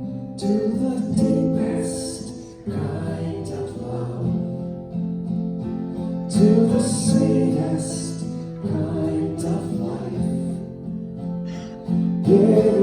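Acoustic guitar strummed under a voice singing a slow, meditative song.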